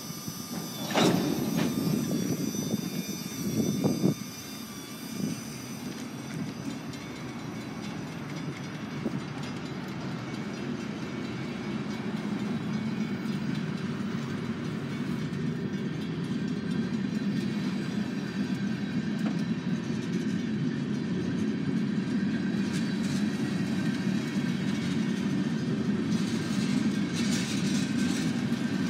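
Freight train cars rolling past on the rails: a steady rumble of wheels that slowly grows louder, with two sharp clanks about a second in and again around four seconds in.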